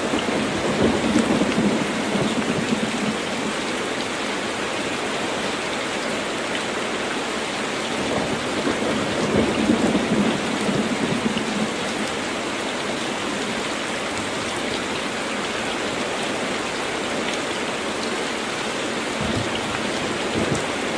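Heavy rain falling steadily on a tin roof, with two low rolls of thunder swelling up, one about a second in and another around nine seconds in.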